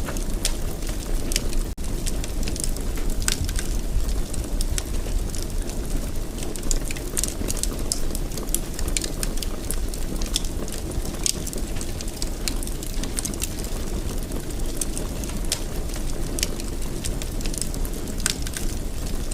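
Fire burning in a fireplace, with frequent irregular crackles and pops over a steady low rumble.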